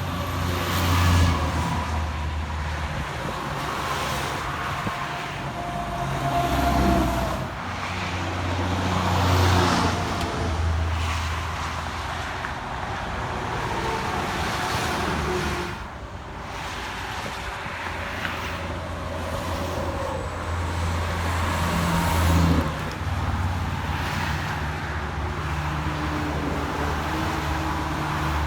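Highway traffic passing one vehicle after another, with engines and tyre noise swelling and fading; the passes peak about a second in, and again near 7, 10 and 22 seconds.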